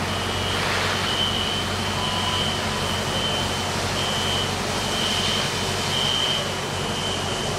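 Steady mechanical hum and rushing noise, with a high-pitched beep-like tone sounding on and off about once a second.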